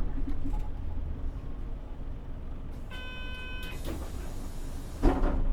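Mitsubishi Fuso Aero Star city bus (PJ-MP35JM) idling at a stop with a steady low rumble, heard from inside. A short electronic beep comes about three seconds in, and a sudden loud burst of noise near the end.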